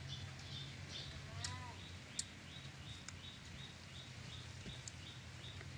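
A bird chirping over and over in a quick even rhythm, about three or four short high chirps a second, over a steady low hum, with a couple of faint clicks.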